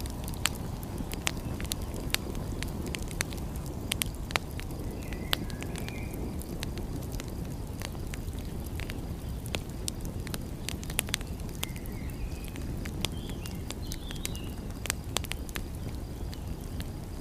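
Wood fire crackling, with frequent sharp irregular pops over a steady low rumble. A few faint high chirps come through twice, near the middle and towards the end.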